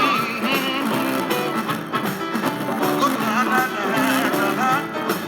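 A rock song with singing and guitar played through a Harman Kardon speaker, which the owner says has a buzzing fault that shows above all on bass notes.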